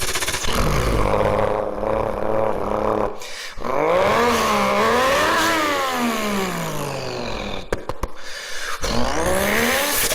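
Single-turbo Toyota Supra engine running steadily. After a short break it revs up hard and falls away over a few seconds, then rises again briefly near the end.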